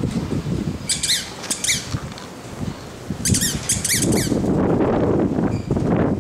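German Shepherd puppy squeaking in two short series of high-pitched cries, about a second in and again after three seconds, over rustling handling noise.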